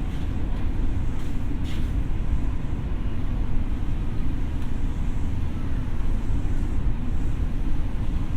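Steady running noise inside a Tokyo Metro 6000 series electric train: a continuous low rumble of wheels on rails, with a few light clicks over the first two seconds.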